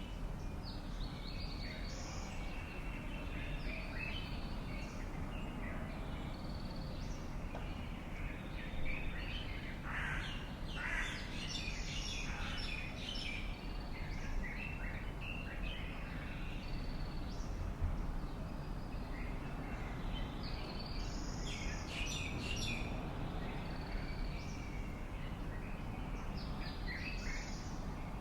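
Several birds chirping and calling in short, varied notes, busiest in two spells, about a third of the way in and again past the middle, over a steady low background rumble.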